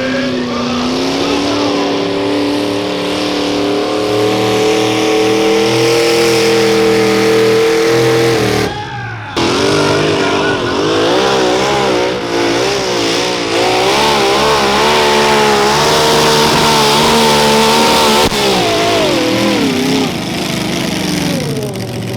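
Mini modified pulling tractor's engine at full throttle through a pull: the revs climb and hold high, cut out abruptly for about half a second around nine seconds in, then come back wavering up and down before holding steady again. Near the end the revs fall away and settle low as the run finishes.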